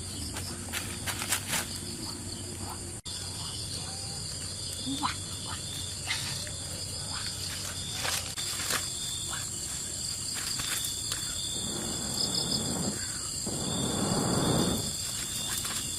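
Insects calling in a steady high-pitched chorus, with scattered small clicks and a louder rustling noise for a few seconds near the end.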